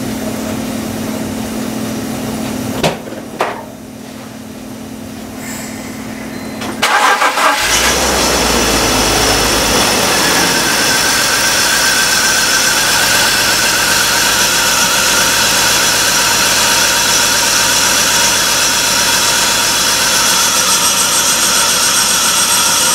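A steady hum with two short knocks, then about seven seconds in the 2004 BMW 325xi's 2.5-litre straight-six is started and settles into a steady idle. The engine has low compression in cylinder one.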